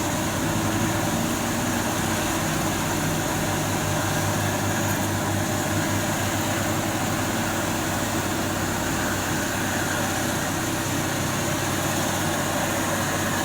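A vehicle engine running steadily, a low even hum with a constant hiss over it, with no revving or change throughout.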